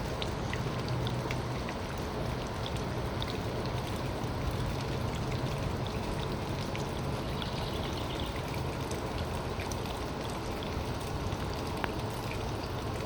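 Steady summer storm rain with water pouring and running off, and scattered drops ticking.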